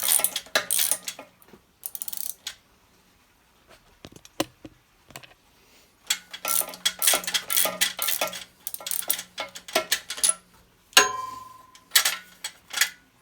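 Ratchet wrench clicking in quick bursts on the engine of an old Honda generator. There is a sharp metallic clink with a brief ring about eleven seconds in.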